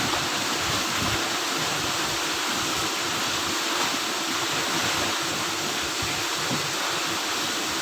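Industrial machine running with a loud, steady noise like a hiss, without a clear rhythm or pitch.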